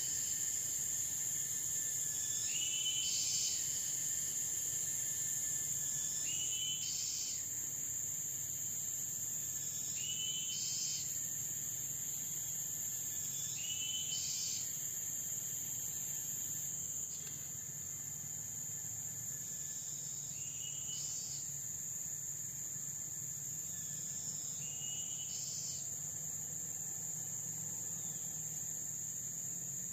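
Tropical forest insects, crickets or cicadas, keep up a steady high-pitched drone. Over it, an animal repeats a short call of a few notes about every three and a half seconds, fading out near the end.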